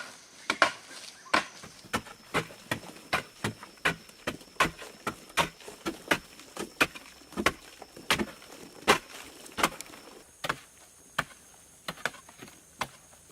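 Quick, repeated chopping strikes on wood, about two to three a second and uneven in force, like a hatchet or axe cutting timber by hand.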